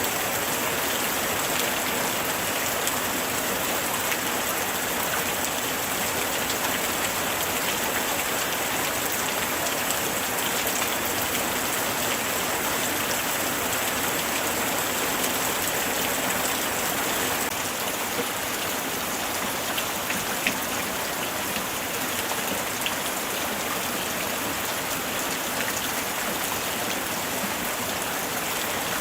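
Light rain falling steadily: a dense, even patter of drops, with a few sharper single drops standing out in the last third.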